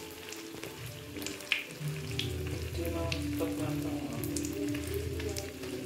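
Corned beef martabak shallow-frying in hot oil in a pan: a steady sizzle full of sharp crackles and spits, with one louder pop about one and a half seconds in.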